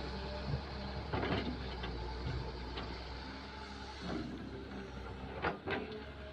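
Excavator's diesel engine running steadily, with a few short clanks and scrapes about a second in and twice more near the end.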